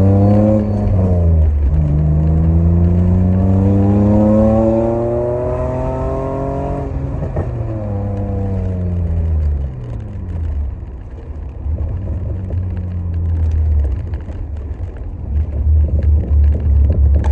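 BMW E30 with a swapped-in 2.8-litre E46 straight-six accelerating hard. The engine note rises, drops briefly at a gear change about one and a half seconds in, and climbs for about five seconds more. It then falls away as the throttle is lifted, settling into a lower, uneven running note.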